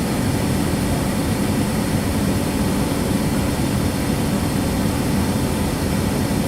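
Regional airliner's engines running steadily as it taxis, an even low rush with no change in level.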